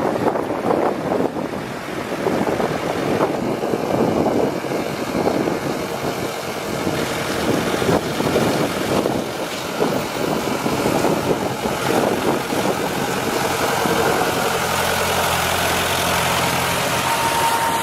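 White 2-60 farm tractor's engine running at idle, with a steadier, even hum in the last few seconds.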